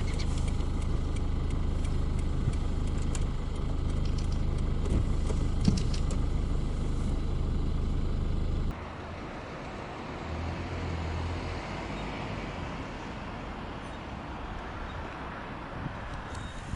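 A steady low hum with a few faint clicks, which cuts off suddenly about halfway through and gives way to a quieter, even background noise.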